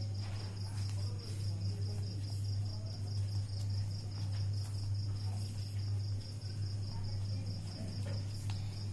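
A cricket chirping steadily, a high even pulsing at about five pulses a second, over a steady low hum, with a few faint rustles of paper being handled and folded.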